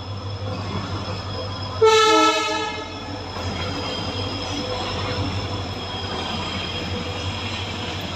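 A train running by with a steady rumble and a thin high whine, and one horn blast lasting about a second, about two seconds in.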